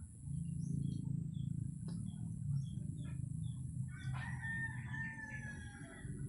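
A rooster crows once, a single call of about two seconds starting about four seconds in, over a low steady rumble and faint scattered bird chirps.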